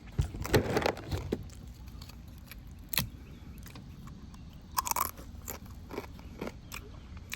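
A person eating close to the microphone: irregular chewing with crunchy bites and sharp mouth clicks. The busiest stretch is about a second in, with further bites around three and five seconds.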